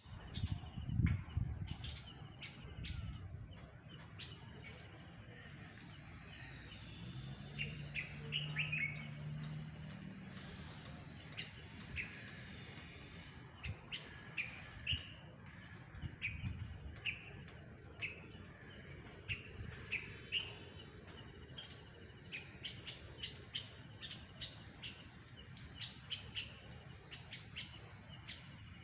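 Small birds chirping repeatedly in short, high notes, with a few low thuds in the first few seconds and a low hum for a few seconds near the third of the way through.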